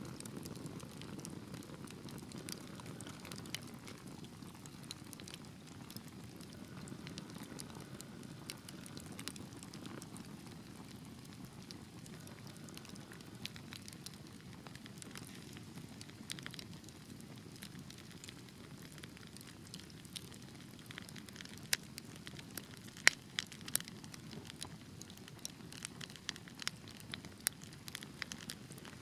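Wood fire burning in a fireplace: a steady low rumble of flames with scattered sharp crackles and pops, which come more often and louder in the last third.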